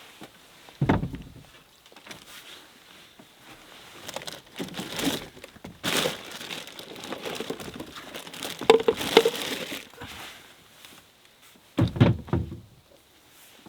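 Crinkling and rustling of something being handled, with a dull thump about a second in and another near the end.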